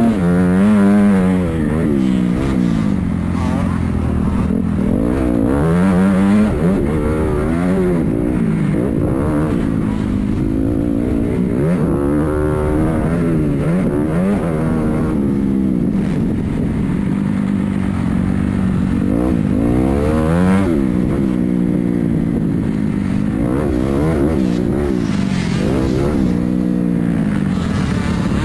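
Motocross dirt bikes revving hard and backing off again and again as they ride the track, the engine pitch rising and falling every second or two, with several bikes overlapping.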